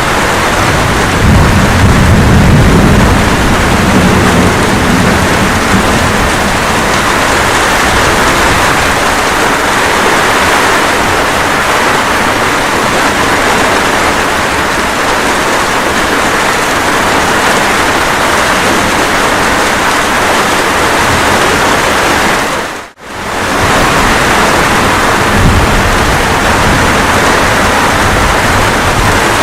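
Steady rain with thunder, a low rumble of thunder rolling through the first few seconds. About 23 seconds in, the sound drops out for a moment and comes straight back.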